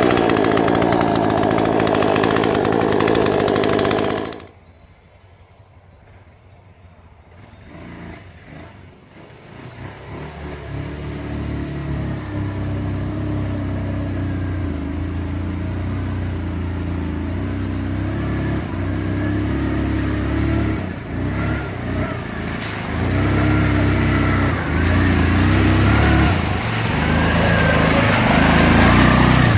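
A chainsaw runs for about four seconds and cuts off abruptly. After a few quieter seconds, a quad bike's engine comes in and runs, revving up and down.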